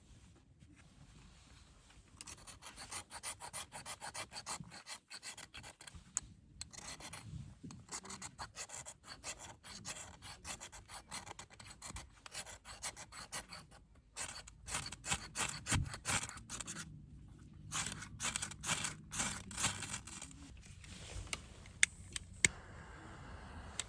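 Rapid rasping, rubbing strokes against a rough surface, coming in runs broken by short pauses, with a couple of sharp clicks near the end.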